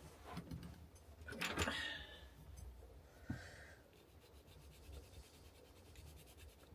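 Faint rubbing and handling sounds of art materials on a desk. A louder scuff comes about a second and a half in, and a short knock a little after three seconds.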